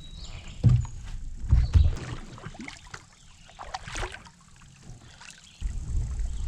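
A kayak being paddled: paddle strokes in the water, with a low rumble on the microphone that sets in near the end.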